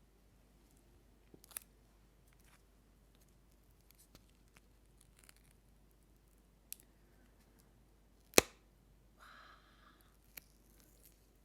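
A few small, sharp clicks close to the microphone, spaced far apart, with one much louder snap about eight seconds in, followed by a brief soft rustle.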